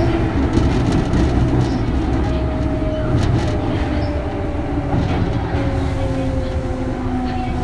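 Kintetsu 3200 series train heard from inside its motor car: the early Mitsubishi GTO VVVF inverter whines in two tones that fall slowly in pitch, over a low running rumble and scattered clicks from the wheels and track.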